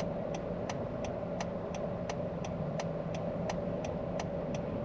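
A Honda CR-V's turn-signal or hazard flasher ticking evenly, about three ticks a second, over the steady hum of the idling vehicle in the cabin.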